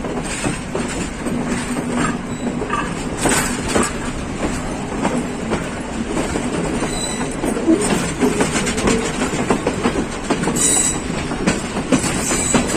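Passenger train running on the rails: a steady rumble of wheels on track with many short sharp clacks and a few louder rushes of noise.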